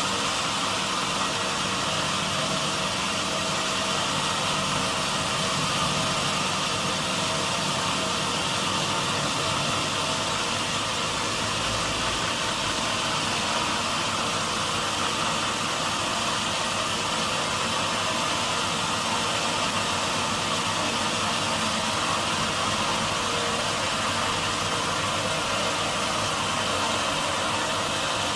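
Sawmill machinery running steadily: a constant engine-like hum with a broad hiss and no change in pitch or level.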